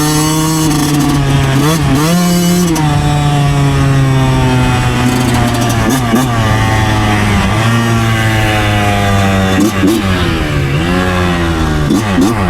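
2009 Yamaha YZ125 two-stroke single-cylinder engine running under load. Its revs dip sharply and climb back several times, near the start, about two seconds in, around six seconds and again after ten seconds, as the throttle is rolled off and on.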